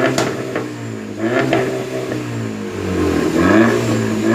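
Volkswagen Beetle engine blipped through a remote-controlled valved exhaust, its pitch climbing and falling in about three revs, with a sharp crack near the start and another about a second and a half in.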